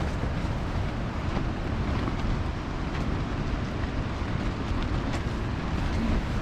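Strong, steady wind with heavy rain, the wind buffeting the microphone with a low rumble.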